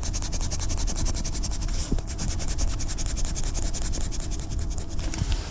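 Pen or marker scribbling on paper in rapid, even back-and-forth strokes, about ten a second, as when colouring in a field, stopping near the end.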